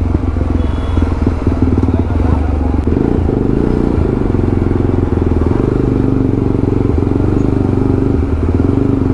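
Jawa 42 single-cylinder engine running loud through a changed silencer, a steady rapid exhaust beat.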